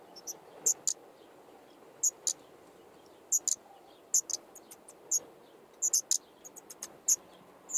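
Common nightingale nestlings giving short, high chirps, singly or in quick pairs, at irregular intervals of about a second.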